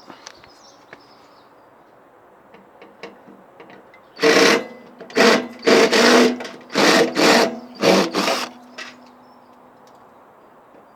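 Cordless drill-driver spinning in about seven short bursts, unscrewing the screws that hold a microwave's magnetron.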